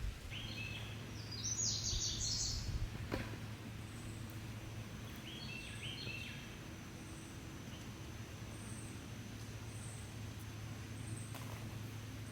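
Birds chirping in two short flurries of quick notes, over a steady low hum and a faint, high note repeating about once a second.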